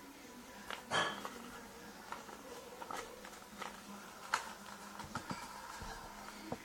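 A sheet of paper being folded and creased by hand: irregular short rustles and crinkles, the loudest about a second in.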